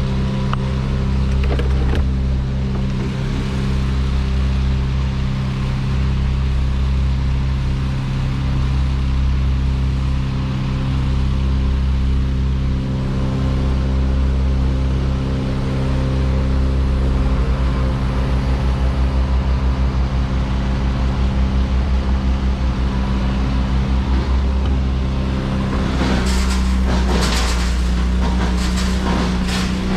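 A large engine running steadily at an even speed, with a rapid series of sharp knocks and cracks coming in near the end.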